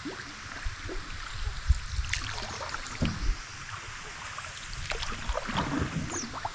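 Canoe being paddled: the paddle dips and splashes in the water at an irregular pace over a steady wash of moving water, with a few low thumps.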